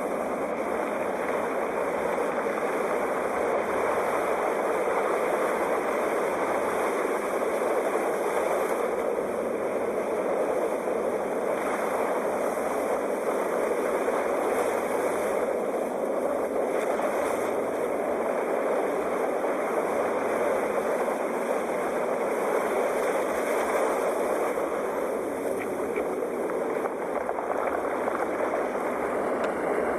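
Sea waves making a steady, even rush with no single breaking wave standing out.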